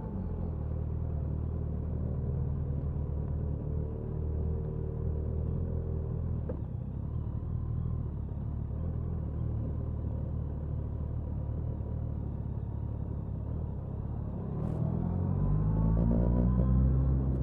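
Suzuki Hayabusa inline-four exhaust cruising steadily at speed, with wind noise over it. About fifteen seconds in the engine gets louder and rises in pitch as the throttle opens and the bike accelerates.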